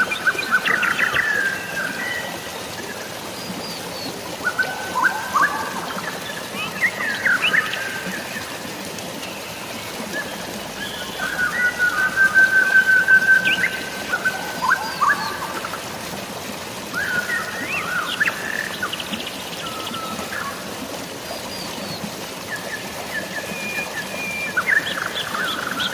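Several birds chirping and calling in bursts over a steady hiss of falling and running water. A held whistled note about halfway through is the loudest call.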